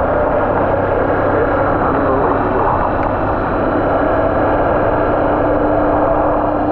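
Honda XR150 single-cylinder motorcycle engine running while riding, under a steady rush of wind. The engine note wavers at first, then settles to a constant pitch about four seconds in.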